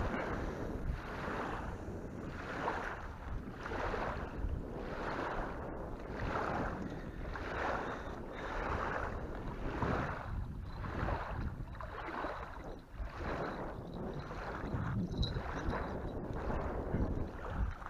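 Small waves lapping at the river's edge in quick, even washes, with wind rumbling on the microphone.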